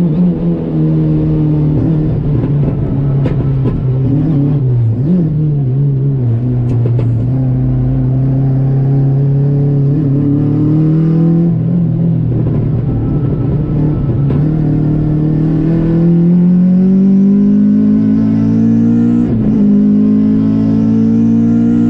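Honda Civic's D-series four-cylinder engine heard from inside the cabin while lapping a circuit. Its pitch falls over the first few seconds as the car slows, then climbs under acceleration, dropping sharply twice, about eleven and nineteen seconds in, at upshifts.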